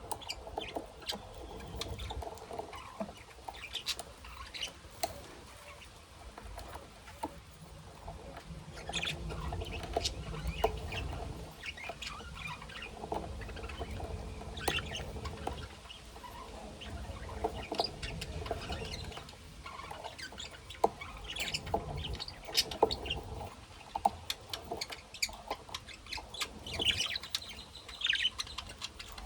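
Small caged pet birds, budgies and lovebirds, chirping and tweeting in short scattered calls, mixed with light clicks, pattering and rustling of the birds moving about the cage.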